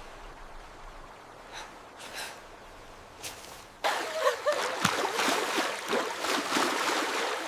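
Faint background hiss, then about halfway in a sudden louder rush of river water splashing and gurgling that carries on.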